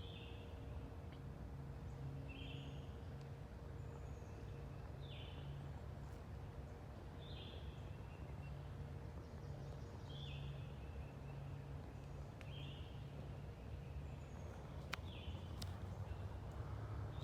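A bird calling over and over, one short call about every two seconds, over a steady low hum. A couple of sharp clicks come near the end.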